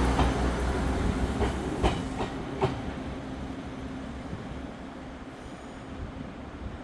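Taiwan Railways diesel train pulling away: the low drone of its diesel engine fades steadily, with a few sharp clacks of wheels over rail joints in the first three seconds.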